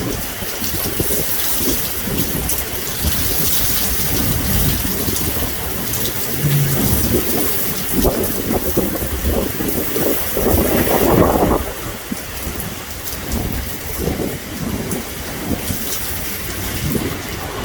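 Heavy rain pouring in a severe thunderstorm, with gusty low rumbling of thunder and wind that swells to its loudest a little past the middle.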